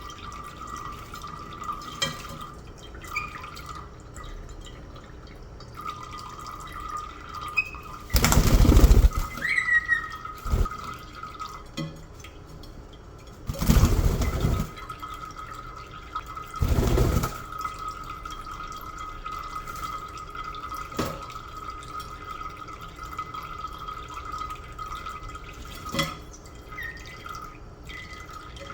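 Caique parrot giving a few short, falling chirps, with three loud bursts of rushing noise about a second long each. A steady high tone runs underneath.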